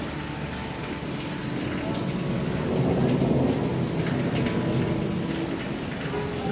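Steady rain falling on puddled ground, with a low rumble of thunder swelling about halfway through.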